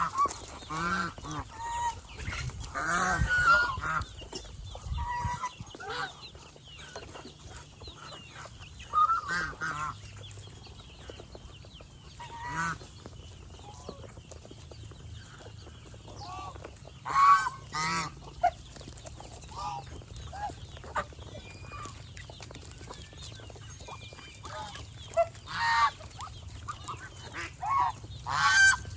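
Domestic geese honking, with short calls coming irregularly and a louder run of honks about seventeen seconds in.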